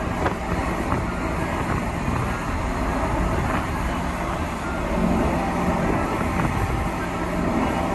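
Steady vehicle running noise: a constant low hum over an even rumble and hiss, with a few faint clicks.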